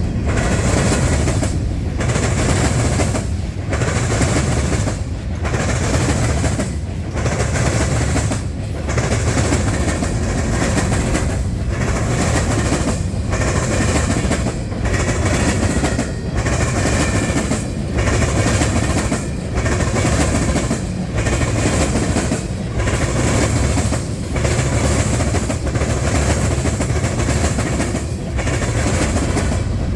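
Freight cars of a passing train rolling by at close range, steel wheels clattering on the track. The sound dips and swells in a regular rhythm about every second and a half as car after car goes by.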